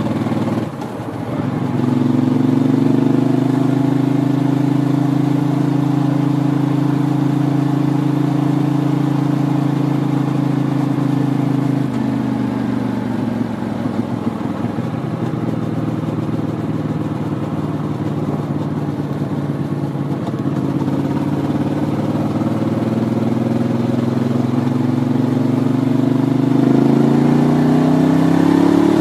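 Ducati 750 Sport's L-twin engine running under way at a steady pace, its pitch dropping about twelve seconds in, then rising slowly and climbing quickly near the end as the bike accelerates.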